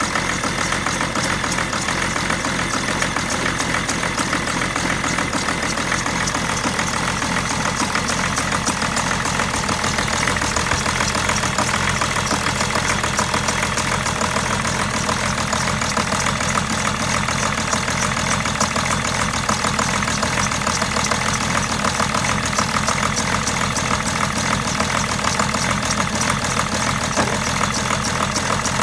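BMW 730d E65's six-cylinder diesel engine idling roughly with a steady, fast pulsing. This is the rough idle after a turbo rebuild: the owner says the engine starts but runs like this for about a minute and then dies.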